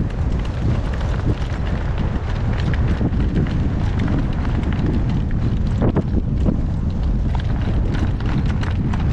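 Wind buffeting the microphone in a loud, steady rumble, with a harnessed horse's hoofbeats clopping irregularly underneath.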